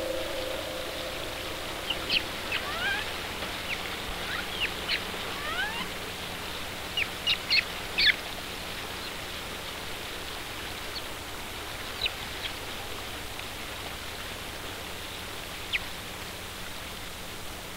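Small birds chirping in short, high calls over a steady hiss. The calls come thickly between about two and eight seconds in, then only a few.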